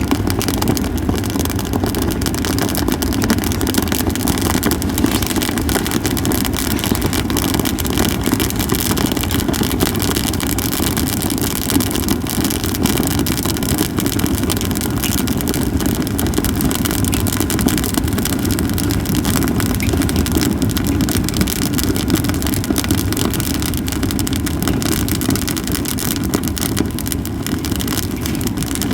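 Japanese cedar firewood burning, crackling and popping continually over a steady low rumble.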